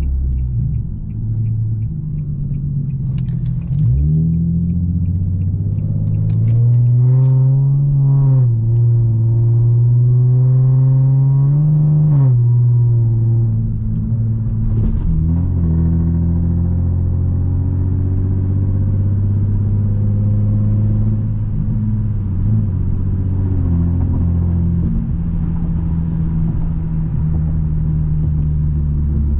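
Infiniti G37x's 3.7-litre V6 engine and exhaust pulling through the gears. The pitch climbs from about four seconds in, drops at a shift, climbs again and drops at a second shift about twelve seconds in, then settles into a steady cruising drone. A row of light, even ticks sounds in the first few seconds.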